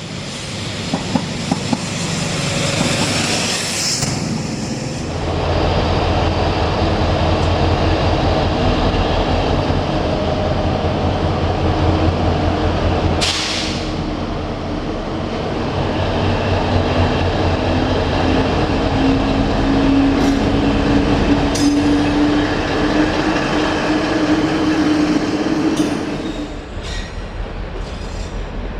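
A railway train running at a station: a few clicks at the start, then a heavy steady rumble from about five seconds in. A short hiss comes about halfway, and through the second half a tone climbs slowly in pitch before the sound drops away near the end.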